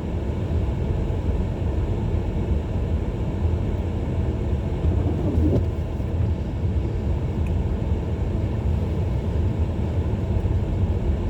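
Car being driven on a snowy road, heard from inside the cabin: a steady low rumble of engine and tyres.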